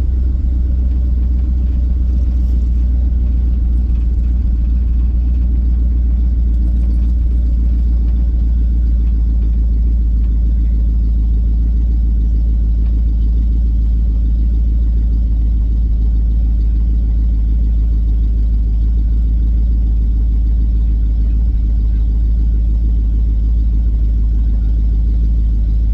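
Car engine and exhaust droning steadily and low, heard from inside the cabin while driving slowly. The exhaust has just been knocked loose and is dragging, which the driver thinks means he broke it.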